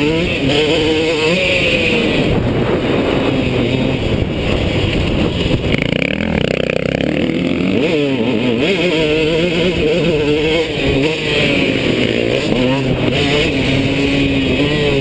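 KTM two-stroke motocross bike engine at race pace, its pitch repeatedly rising and falling as the throttle opens and closes. It eases off about six seconds in, then picks up again around eight seconds.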